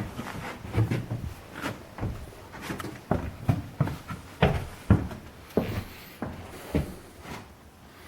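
Irregular knocks and thumps of carpentry on a timber frame: wood being struck and handled during rafter and OSB work. They come thickest in the middle and thin out near the end.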